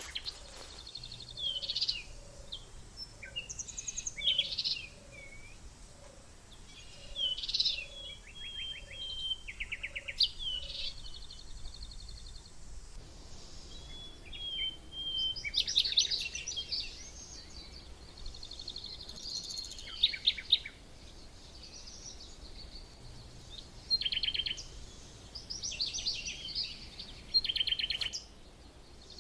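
Several wild birds singing and calling: bursts of chirps, short whistled phrases and rapid trills, with brief pauses between them over a faint outdoor background hiss.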